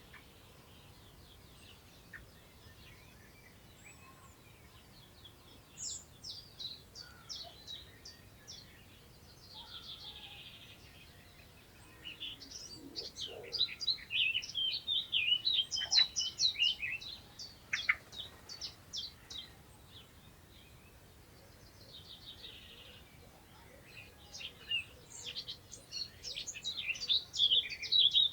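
Songbirds singing in the countryside: bursts of quick, high chirping notes come in three spells, the busiest and loudest in the middle, over a faint steady background hiss.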